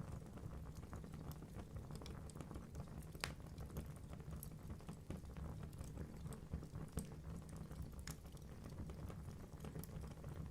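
Wood fire in a fireplace burning steadily with a low rumble of flame and constant small crackles, and sharper pops from the logs about three seconds in and again near eight seconds.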